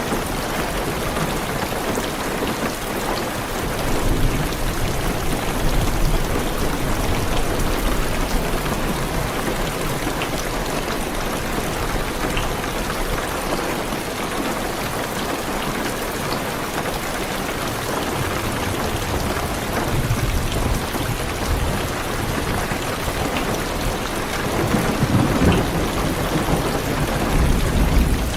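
Heavy rain drumming steadily on a car's roof and windows, heard from inside the car, with deep thunder rumbling low a few seconds in and swelling again near the end.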